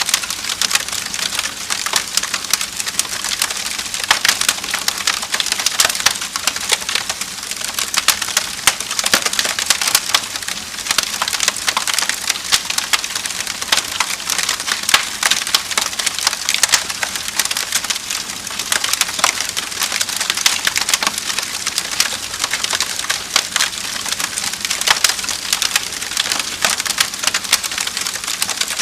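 Wood fire in a fireplace crackling and popping steadily, dense irregular snaps over a soft hiss.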